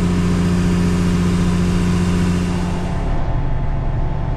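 Combine harvester engine and machinery running steadily, heard from inside the cab as a constant hum. About three seconds in, the tone shifts and the hiss thins out.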